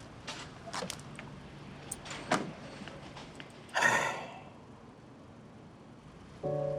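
Car door being handled: a few sharp clicks, then a short rushing thud about four seconds in as the door is shut.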